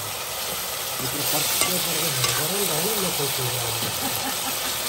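Chicken pieces frying and sizzling in a black iron karahi, stirred with a metal ladle that clicks against the pan now and then. The sizzle gets louder about a second in.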